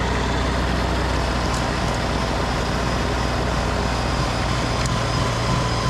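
Tractor engine running at a steady speed while driving a snowblower.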